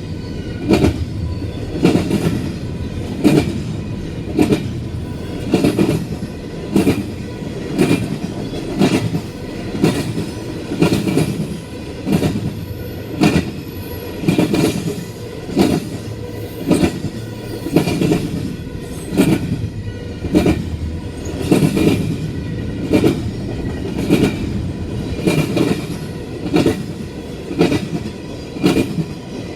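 Intermodal freight train cars rolling past, their wheels clacking over rail joints in a steady rhythm about once every 0.8 seconds over a continuous rumble.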